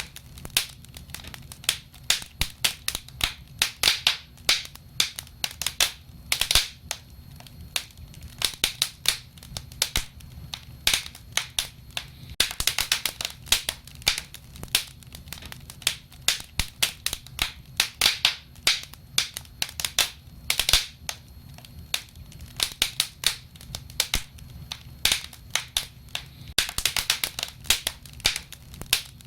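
Wood fire crackling, with many irregular sharp pops and snaps in quick clusters over a low, steady rumble of the flames.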